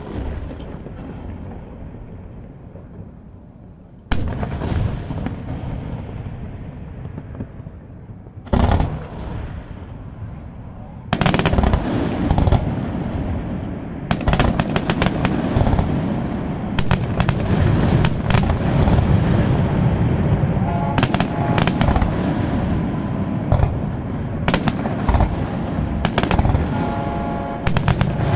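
Aerial fireworks display: a single shell burst booms about 4 seconds in and another about 8 seconds in, then from about 11 seconds on a dense, continuous barrage of rapid bangs and crackling.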